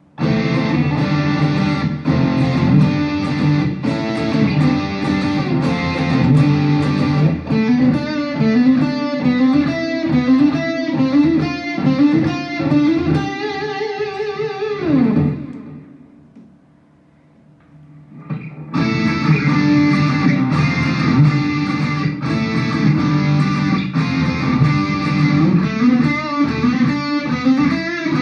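Electric guitar played through a Mooer GE100 Pro multi-effects preset, picking a run of chords and riffs. Past the middle the notes slide down in pitch and die away. After a pause of about two to three seconds the playing starts again.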